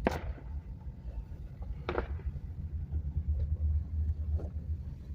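Steady low rumble of a car heard from inside the cabin, with a few short sharp knocks: one at the start, one about two seconds in and a fainter one later.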